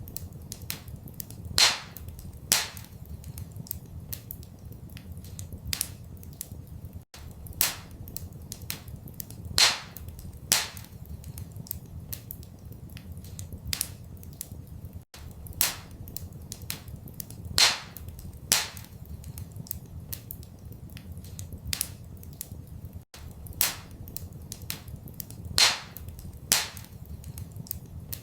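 Wood fire in a fireplace crackling, with sharp pops and snaps scattered over a steady low rumble. The same stretch of crackles repeats about every eight seconds, a short loop.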